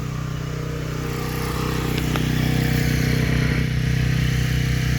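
A vehicle engine idling steadily, getting slightly louder after about a second and a half.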